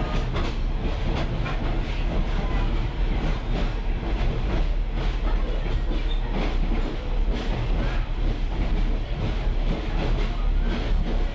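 Railroad caboose rolling along the track: a steady low rumble from the running gear, with irregular clacks and knocks as the wheels pass over rail joints.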